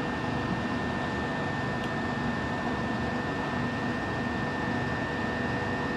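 Steady hum of a Class 375 Electrostar electric multiple unit standing at the platform with its auxiliary equipment running, with a constant high whine over it.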